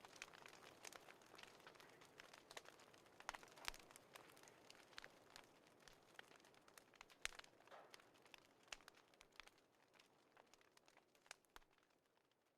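Wood fire crackling faintly: irregular sharp pops and snaps over a soft hiss, fading out gradually.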